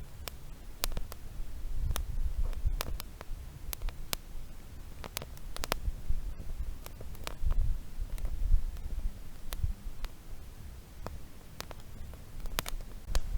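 Wood campfire crackling, with irregular sharp pops one to three times a second over a low, wavering rumble.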